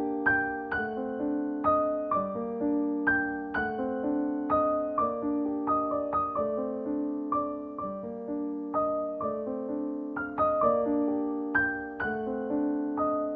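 Background music: a soft piano melody, single notes struck one after another at a gentle, even pace, each ringing and fading.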